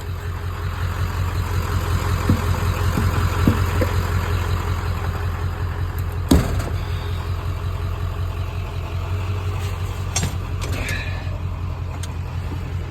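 Vehicle engine idling steadily, with a sharp knock about six seconds in and a few fainter knocks.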